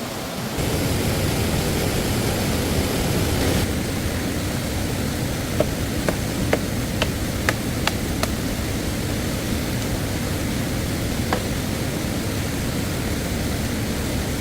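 Steady rushing water of a stream, an even loud hiss. A few short sharp knocks or clicks come through it in the middle.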